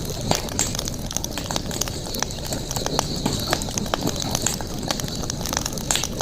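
Wood campfire crackling, with frequent irregular sharp pops and snaps over a steady low rush of burning. A steady high-pitched buzz runs underneath.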